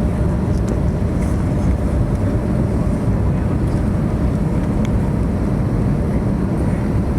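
Steady roar of cabin noise inside an Airbus A321neo in flight: engine and airflow noise, strongest in the low range, with a few faint ticks.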